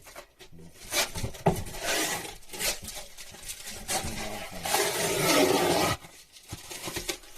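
Irregular scraping and rubbing handling noises with a few sharp knocks about a second in; the longest and loudest rubbing comes about two-thirds of the way through.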